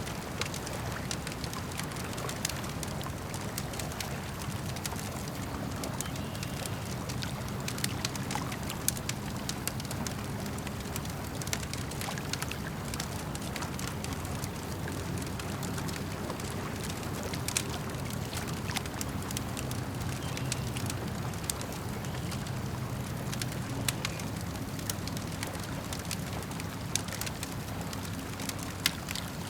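Campfire crackling with frequent sharp pops, over the steady low lapping and trickle of lake water.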